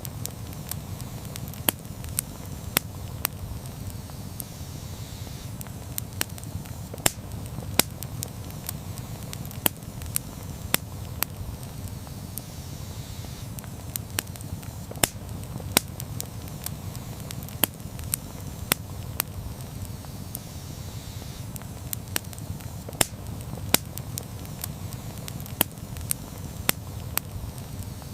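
Campfire crackling steadily, with a low rumble of the burning wood and irregular sharp pops and snaps, roughly one or two a second.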